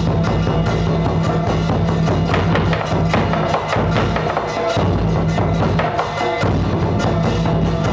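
Percussion music: quick clicks of a wood block over drums, with a steady low drone that drops out briefly twice.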